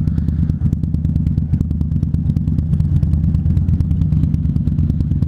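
Indian Scout Bobber's V-twin engine running steadily with an even low beat.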